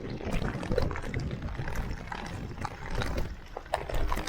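Irregular clicks, crunches and knocks over a low rumble of wind on the microphone: a bicycle being pushed on foot along a rough dirt trail.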